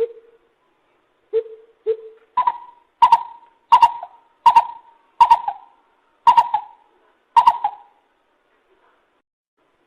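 Lesser coucal calling: a series of short pitched notes, three lower ones first, then about seven higher ones at a steady pace, each cutting in sharply and fading quickly, before the bird falls silent for the last two seconds.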